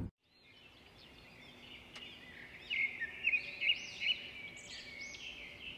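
Birds chirping and twittering in quick arching calls, fading in and growing louder from about two and a half seconds in.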